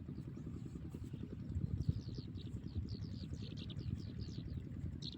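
Small birds chirping repeatedly in short, quick descending notes, over a steady low rumble.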